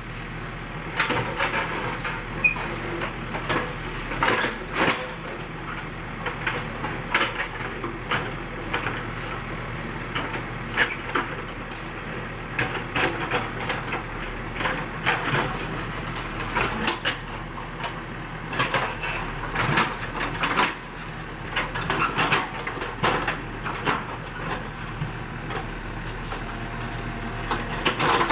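ACE AX124 backhoe loader's diesel engine running steadily, with frequent irregular clanks and knocks from the bucket and arm as it digs and scrapes soil.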